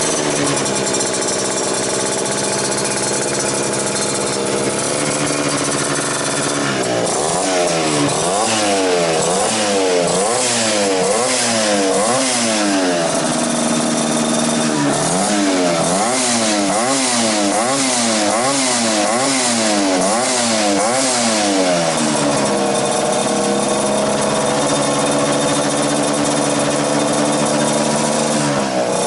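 1979 Vespa mini scooter's small two-stroke single-cylinder engine running through a new aftermarket exhaust: steady idle, then two long spells of quick repeated throttle blips, the pitch swinging up and down about once a second, before settling back to idle near the end.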